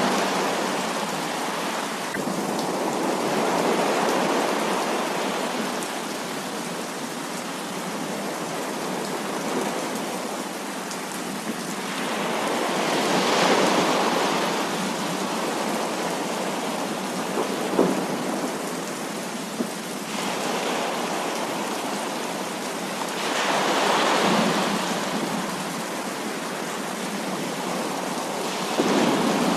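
Heavy rain falling steadily, with rolls of thunder swelling and fading several times and a couple of sharp cracks.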